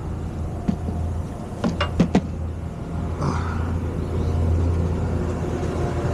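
Truck engine idling steadily, with a few sharp knocks about two seconds in.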